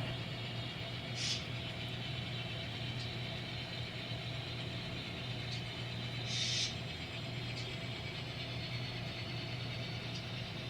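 An N scale diesel locomotive's sound-decoder diesel engine sound runs steadily at a low level. Two short hisses, like air being let out, come about a second in and again about six seconds later.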